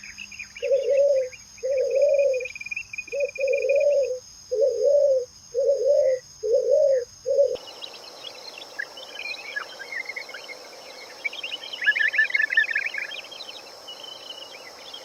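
Dove-like cooing, low calls repeated about once a second, over faint bird chirps. About halfway through it cuts off abruptly to a different backdrop of small birds chirping and twittering.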